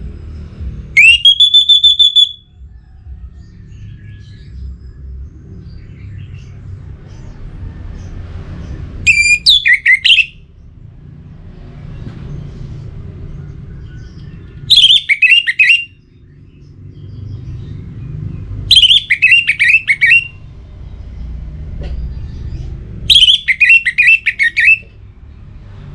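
Orange-headed thrush singing five loud, separate phrases spaced several seconds apart: the first a rising whistle held steady, the rest quick runs of falling notes. A low background rumble fills the gaps between phrases.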